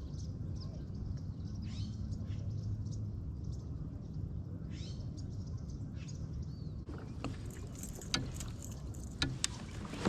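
Small birds chirping in short rising calls over a low, steady rumble. About seven seconds in, a hiss of moving water with a few sharp clicks starts up, like a kayak paddle dipping and dripping.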